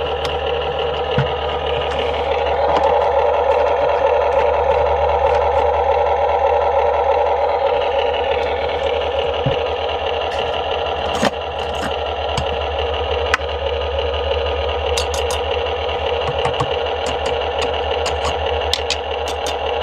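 Huina 1593 RC excavator's small electric motors and plastic gearboxes whirring steadily, getting louder for a few seconds near the start, with scattered clicks and clatter from the gears and tracks.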